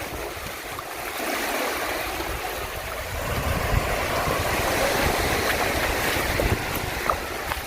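Sea waves washing onto a sandy beach, a steady noisy rush that swells a little about a second in, with wind buffeting the microphone.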